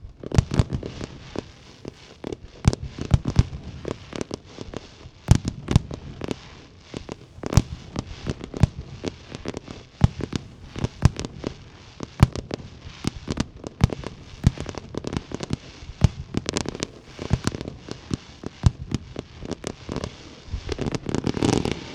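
Fireworks display (Jinli Fireworks) going off in quick succession: many sharp bangs and crackles, several a second, with a denser, louder cluster near the end.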